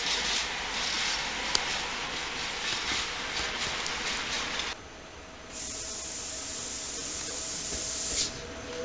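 Train moving through a station, with rail noise and the clicks of wheels over rail joints, cut off abruptly about halfway through. After a short lull a steady high hiss runs for under three seconds and stops suddenly.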